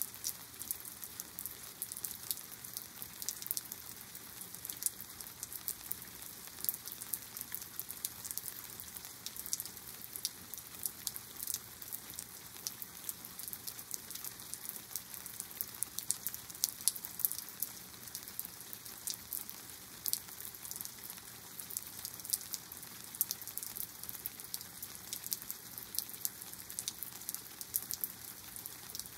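Steady rain shower, with a thick run of sharp drop ticks close by.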